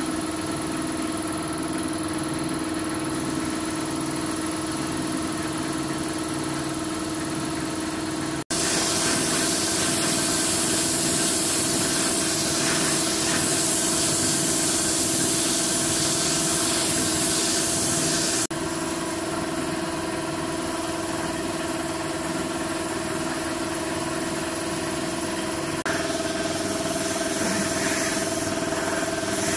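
An engine running steadily at an even speed. From about eight seconds in to about eighteen, a loud hiss like spraying covers it, and the sound changes abruptly at each cut.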